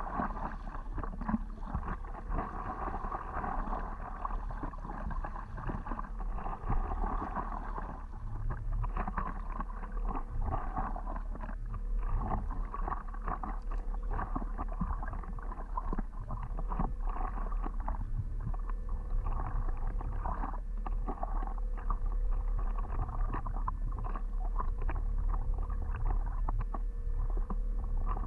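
Water lapping and splashing around a stand-up paddleboard out on the water: a steady wash of small irregular splashes over a constant low rumble.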